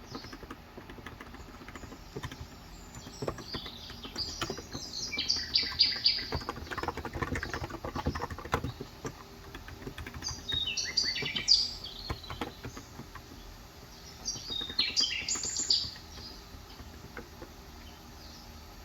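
Birds chirping in three bursts of quick high notes, about four, ten and fifteen seconds in, over scattered keystroke clicks from a COX Endeavor electrocapacitive 35 g tenkeyless keyboard, the typing busiest in the middle.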